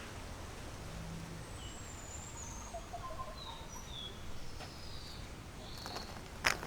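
Several short, high bird chirps and whistles over a steady background hiss, with a single sharp knock near the end.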